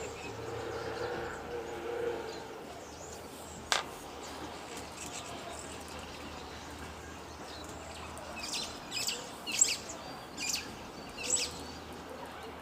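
A bird chirping: a run of about five short, high chirps in the second half, over steady outdoor background noise. A single sharp click comes a little under four seconds in.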